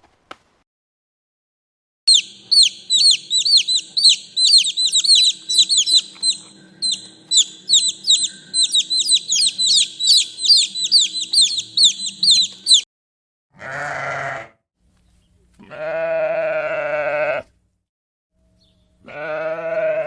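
A fast run of short, high-pitched chirps, several a second, for about ten seconds, then three separate bleats from livestock, the middle one the longest and wavering.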